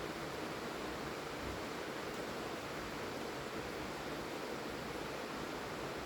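Steady rainfall, an even hiss of rain with no distinct drops or changes.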